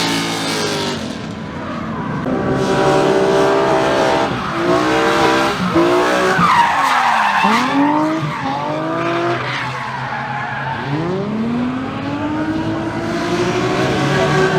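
A drift car's engine revving hard, its pitch climbing and dropping again and again as the car slides, with the tyres squealing and skidding underneath.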